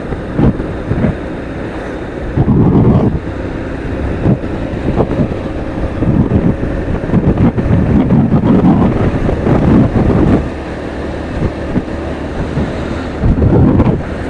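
Wind buffeting the microphone of a moving motorcycle in uneven gusts, over the steady running of the engine.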